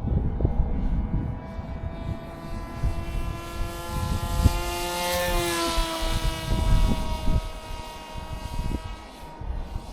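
Electric motor and propeller of a Flite Test Space Fighter RC foam plane whining in flight, growing louder as it passes close about halfway through, its pitch dropping as it goes by. Wind buffets the microphone with gusty low rumbles.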